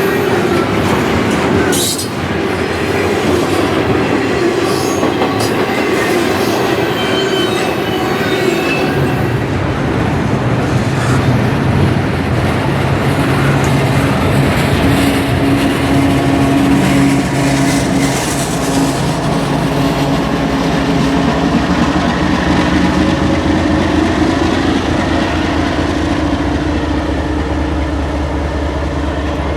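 A train passing close by, its rail cars rolling over the track. About nine seconds in, a lower steady hum joins the rolling noise.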